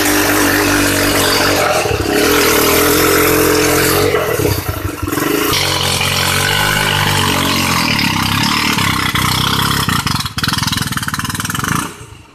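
Engine of a homemade six-wheeled car (a small car joined to an auto rickshaw) running and revving as the car pulls away, its pitch rising and falling a few times as the throttle changes.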